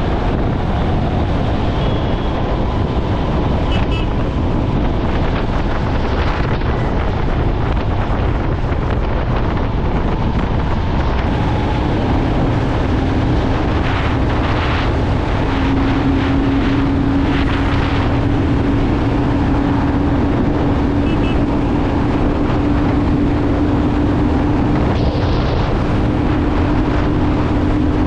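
Motorcycle riding at a steady speed, wind buffeting the microphone over the engine. A steady low engine drone comes in a little under halfway through.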